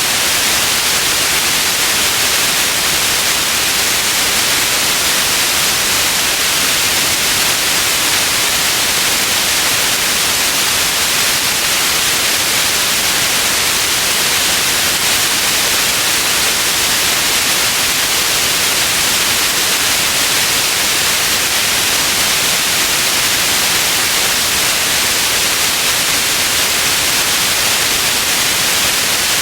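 Steady white noise: an even, unchanging hiss, strongest in the upper range, with no variation.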